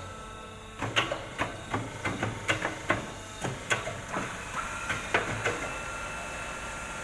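Tyre-changing machine at work: a run of sharp clacks and knocks, about three a second. A steady machine hum sets in about four seconds in, and the clacks stop soon after.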